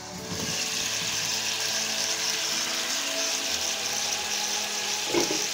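Pieces of fish frying in hot olive oil in a pan: the sizzle gets much louder just after the start as the glass lid comes off, then goes on steadily. A short knock near the end.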